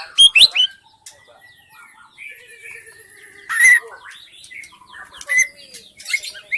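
White-rumped shama singing a varied song of whistled notes, quick trills and sliding phrases, with loud bursts about half a second in, mid-way, and again near the end.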